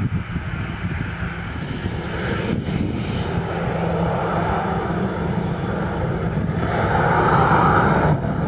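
CFM56-7B turbofan engines of a Boeing 737-800 running at low thrust as the jet taxis close by: a steady hum under a whine and rushing hiss, growing louder and loudest near the end.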